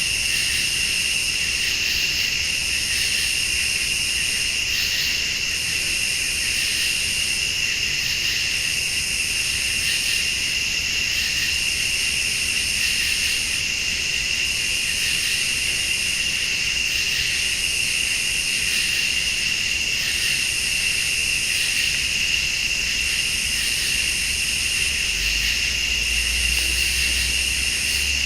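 A night chorus of crickets and late-summer insects, trilling steadily, with a higher buzzing call that pulses on and off about once a second.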